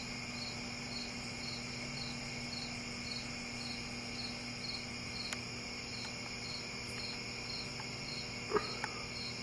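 Microwave oven running with grapes inside, a steady low hum with fan hiss, no plasma arcing. Over it, a faint high chirp repeats about twice a second.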